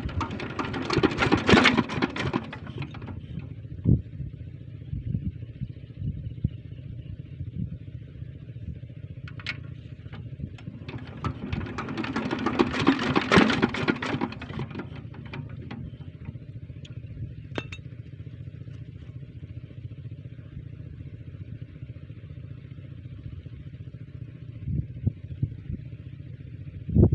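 Small diesel engine driving a water pump, running steadily, with two louder, harsher stretches of a few seconds each, about a second in and around twelve seconds in.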